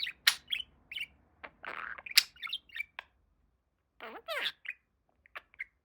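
Pet budgie chirping and squawking in quick short calls for about three seconds. About four seconds in it says its name, "Boba", in its talking voice, followed by a few short chirps.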